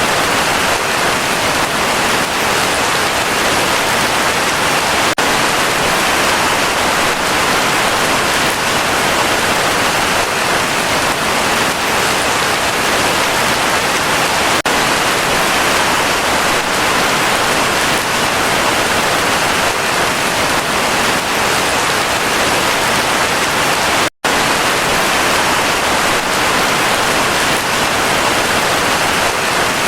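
Heavy rain falling steadily, a dense even hiss with no thunder. It cuts out to silence for a split second about two-thirds of the way through.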